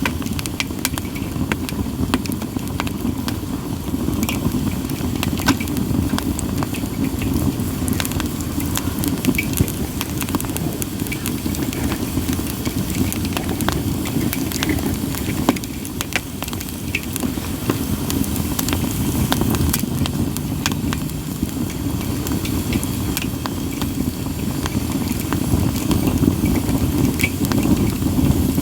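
Split sawtooth oak (kunugi) firewood burning in a campfire: a steady low rumble of flames with frequent sharp crackles and pops scattered throughout.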